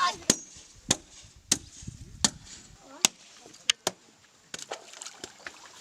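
An irregular series of sharp knocks or strikes, about eight in all, spaced roughly half a second to a second apart.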